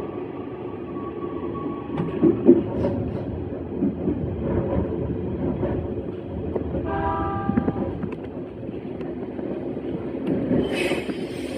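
E131-series electric train running along the track, with a few rail knocks and a short horn blast about seven seconds in.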